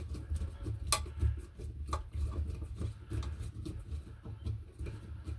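Scattered clicks and taps of tools and small metal parts being handled during electrical work, with a sharp click about a second in and another about two seconds in, over a low rumble.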